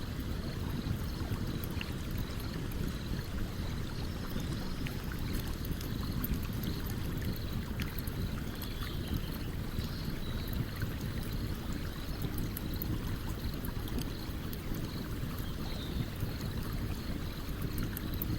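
Steady rush of a stream with a campfire crackling over it: many small, sharp pops and ticks scattered throughout.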